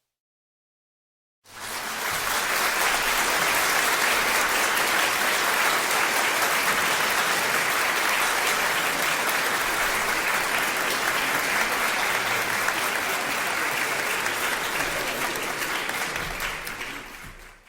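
A stock sound effect of applause: dense clapping from an audience that begins suddenly after a second and a half of silence, holds steady, and fades out near the end.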